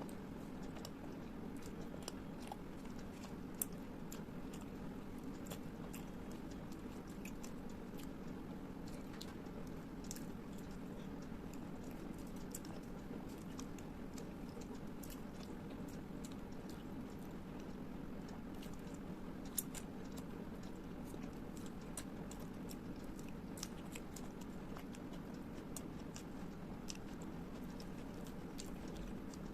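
Close-miked eating: chewing with scattered wet mouth clicks and smacks over a steady low hum, two clicks standing out louder.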